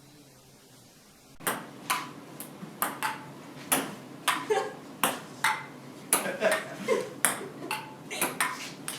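Repeated sharp pings, each ringing briefly, coming irregularly about one or two a second and starting about a second and a half in.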